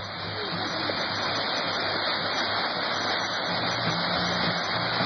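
Whitewater rapids rushing: a steady, dense roar of moving river water that swells over the first second.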